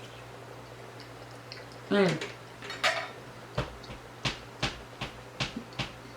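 Metal fork clinking against dishware: about seven sharp taps in the second half.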